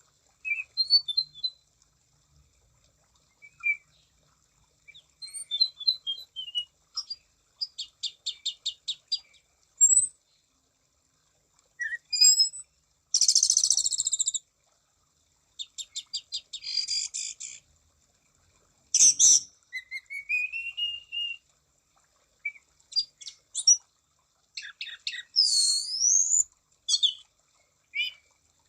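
Anis cendana thrush singing a vigorous song of short, varied phrases with gaps between them: whistled glides, rapid trills and a buzzy note.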